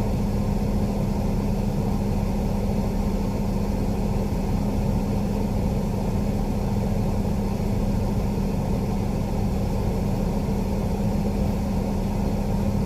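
Semi truck's diesel engine running at low speed, heard from inside the cab: a steady drone with a constant hum.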